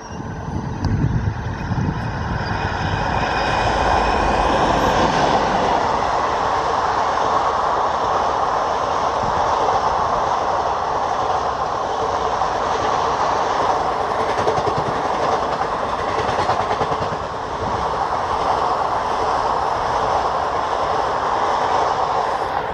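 A passenger train hauled by a WAP-4 electric locomotive rolls past close by, building over the first few seconds with a low rumble and a whine of several steady tones. It then settles into the steady noise of the coaches rolling along the rails.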